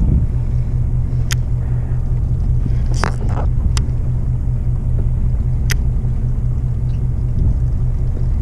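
Steady low rumble of a fishing boat's engine running, with a few sharp clicks over it.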